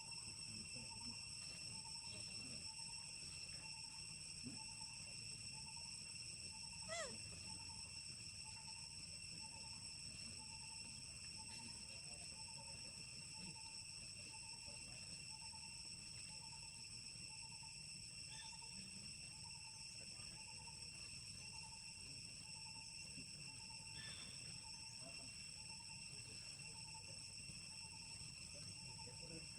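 Forest ambience: a steady, high-pitched insect chorus, with a faint call repeating about once a second and one brief rising call about seven seconds in.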